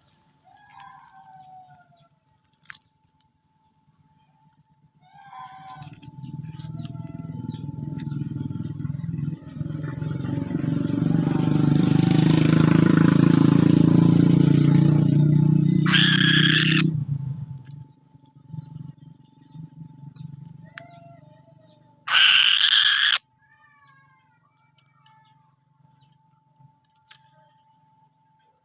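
A motor vehicle passes: its engine hum swells over about ten seconds and then fades. Two loud harsh screeches, each about a second long, cut in near the end of the pass and again a few seconds later, with faint short bird chirps in between.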